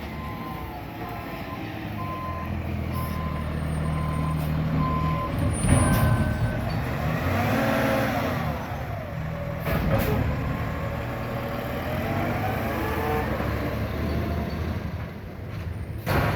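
Roll-off container truck's diesel engine running, with its reversing alarm beeping about once a second for the first six seconds. The engine note then rises and falls as the truck moves off, with a couple of sharp knocks about six and ten seconds in.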